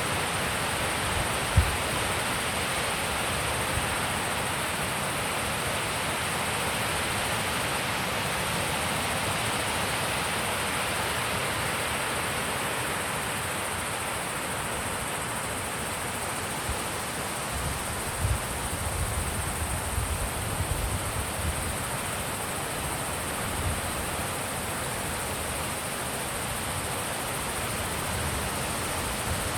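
Wind blowing steadily, an even rushing hiss, with a short low thump near the start and a cluster of low rumbles and knocks a little past halfway.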